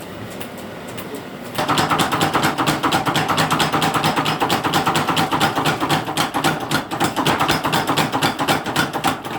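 Mechanical power hammer in a blacksmith's forge, striking steel in a rapid, even run of about eight to ten blows a second. It starts loudly about one and a half seconds in.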